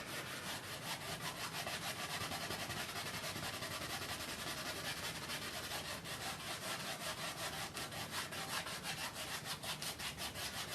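Paintbrush rubbing oil paint onto canvas in quick, short, repeated strokes.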